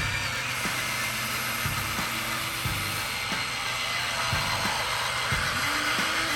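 Small electric motors and plastic gearboxes of remote-control construction vehicles whirring steadily, with irregular clicks and knocks from the moving parts.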